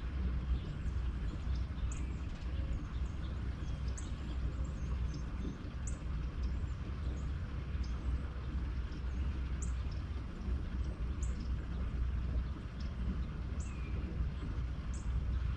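Birds chirping, short high calls every second or two, over a steady low rumble.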